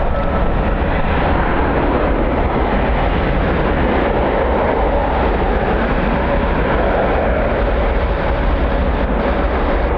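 Jet airliner engines running loud and steady: a broad rush over a low rumble, with a thin steady whine held throughout.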